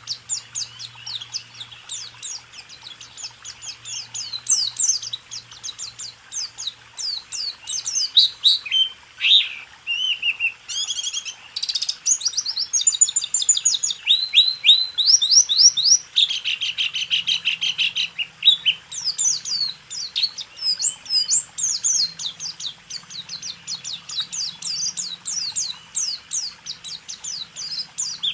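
A pleci (white-eye) singing a long, unbroken song of rapid high chirps and quick whistled notes in the fast 'roll tembak' style, with a buzzy trill about halfway through.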